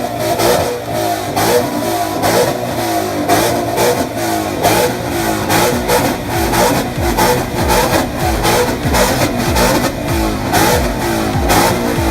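Ford Mustang V8 engines with loud exhausts being revved over and over in quick, repeated blips, the pitch rising and falling again and again.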